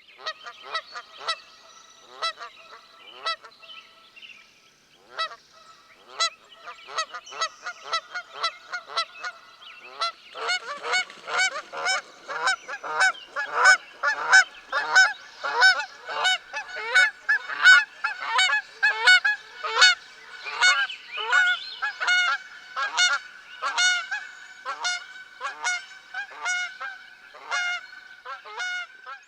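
Geese honking: a steady series of short calls, at first about two a second, becoming faster, louder and overlapping, as from several birds, from about ten seconds in.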